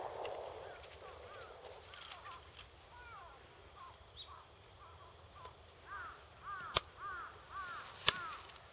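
A bird calling over and over in short arched calls, which come thicker toward the end. Two sharp snaps ring out near the end.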